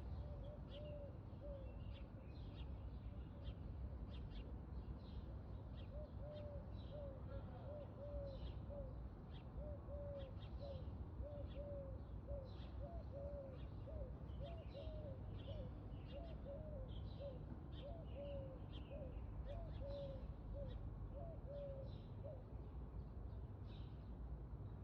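Birds calling: scattered short high chirps throughout, and a run of short low calls repeated about twice a second over the middle, over a steady low rumble.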